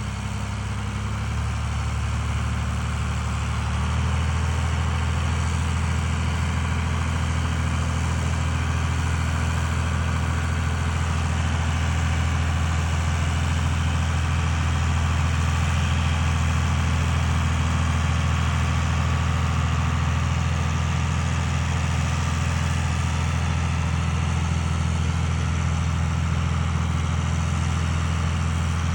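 John Deere tractor engine running steadily while dragging a big log, picking up a little about a second in and again about four seconds in, then holding an even drone.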